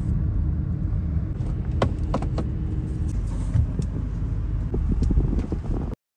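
Toyota Fortuner SUV running and pulling away, its engine and road rumble heard from inside the cabin, with a few sharp clicks about two seconds in. The sound cuts off suddenly just before the end.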